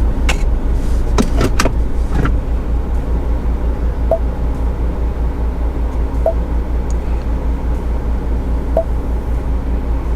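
Steady low rumble inside a car's cabin, with a few clicks in the first two seconds and three short beeps spaced about two seconds apart.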